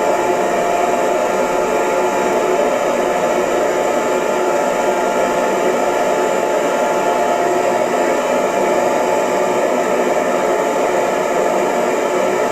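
Hair dryer running steadily, a constant blowing whoosh with a faint steady motor hum and no change in speed.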